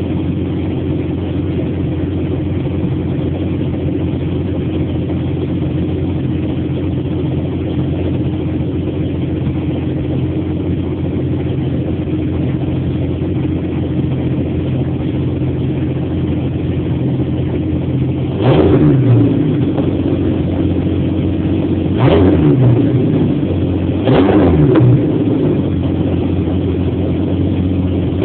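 1998 Jeep Grand Cherokee's 4.0-litre straight-six, through a Cherry Bomb glasspack exhaust, idling steadily, then revved three times in short blips near the end, each rising and falling quickly.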